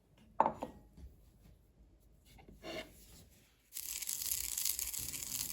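Sesame seeds being dry-roasted and stirred in a pan, a steady hissing crackle and rustle that starts abruptly nearly four seconds in; before it, a few faint knocks.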